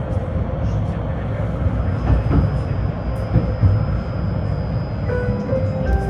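A tram running on its rails, heard from inside the car: a steady low rumble with occasional knocks from the wheels and track. Near the end, a short chime of a few notes sounds.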